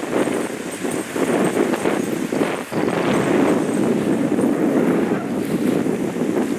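Strong wind buffeting the microphone, mixed with waves washing onto the shore, rising and falling in gusts.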